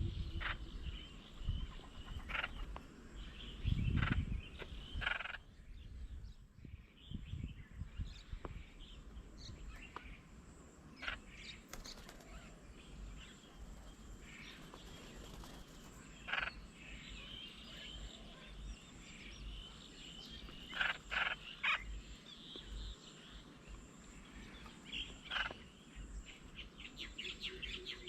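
Birds at a garden bird table giving short, scattered chirps and calls over a steady faint outdoor background, with a low thump about four seconds in.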